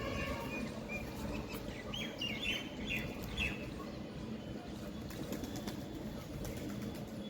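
Lovebirds chirping in a cluster of short high calls during the first half, over a steady low rustle of wing flapping.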